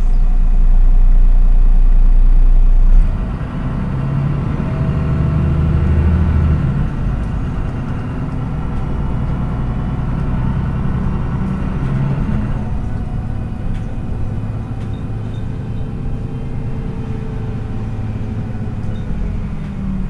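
MAN NÜ 313 bus heard from inside the cabin while under way: diesel engine and road noise. A heavy low drone for the first three seconds cuts off with a jolt. The engine then pulls harder for a few seconds before easing back to steady running.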